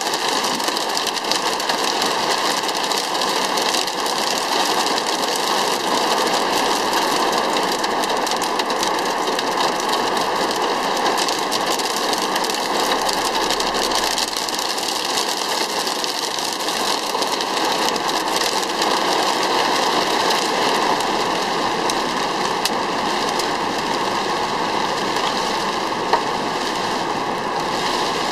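Heavy rain pelting the roof and windscreen of a moving car, heard from inside the cabin as a loud, dense, steady patter. A single sharp knock sounds near the end.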